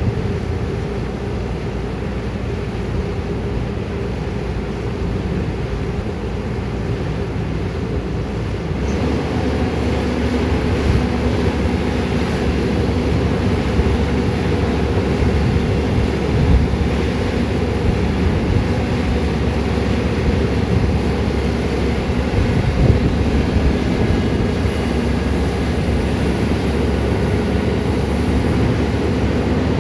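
Caterpillar 320D excavator's diesel engine running steadily, growing louder about nine seconds in.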